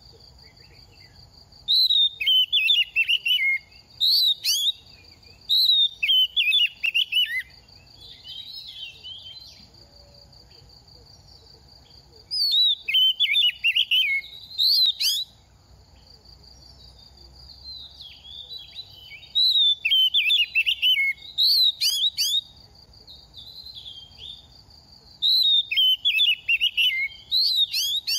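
Oriental magpie-robin singing in about six bursts of quick, varied whistled phrases, each a second or three long with pauses between, over a steady high-pitched drone.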